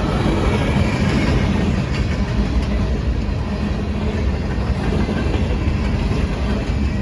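A train rolling past at close range, with a steady rumble of wheels on rail and some clickety-clack from the rail joints.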